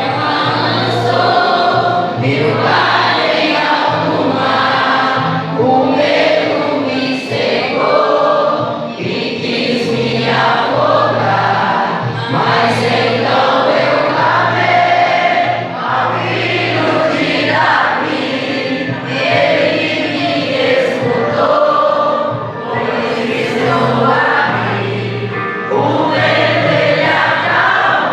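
A group singing a gospel hymn together with steady instrumental accompaniment and a repeating bass line.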